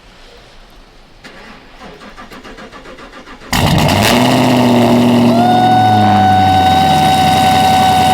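Chevrolet Camaro V8 cold start: the starter cranks for about three and a half seconds, then the engine catches with a sudden loud flare. It settles toward a fast cold idle, with a steady high whine that sets in about five seconds in.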